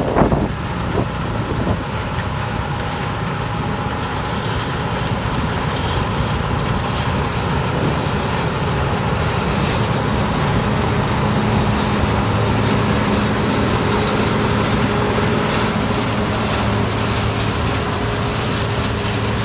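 Combine harvester running as it harvests soybeans and comes closer, its steady engine and machinery hum growing gradually louder and clearer over the second half. A gust of wind buffets the microphone at the very start.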